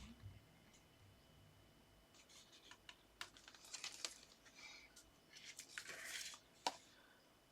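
Faint rustling and scraping of paper card being handled, positioned and pressed down on a work surface, with scattered light taps and one sharper click near the end.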